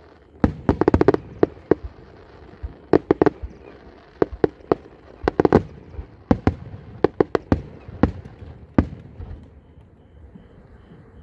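Aerial fireworks shells bursting: many sharp bangs in irregular quick clusters that thin out and stop about nine seconds in.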